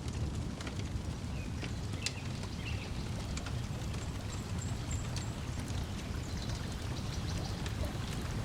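Layered lakeside ambience: a steady low wash of lapping water, with a wood fire crackling in scattered sharp pops throughout and a few brief bird chirps.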